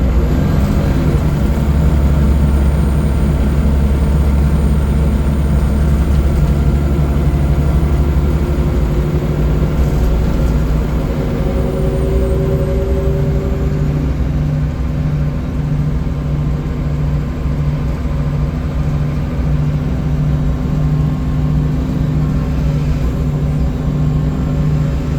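Scania L94UB city bus's diesel engine heard from on board, running with a steady low drone. About halfway through a brief higher tone glides, and from then on the low drone pulses evenly.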